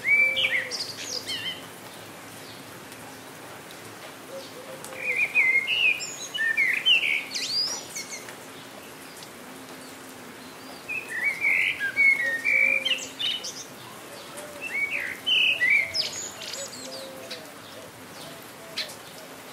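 A songbird singing in short bursts of quick chirps and trills, four phrases a few seconds apart, over a steady patter of rain.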